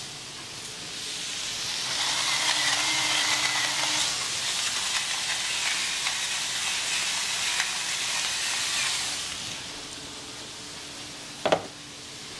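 Potatoes frying in avocado oil on a grill: a sizzle that swells about two seconds in, holds, and dies back down around ten seconds. A single sharp knock comes near the end.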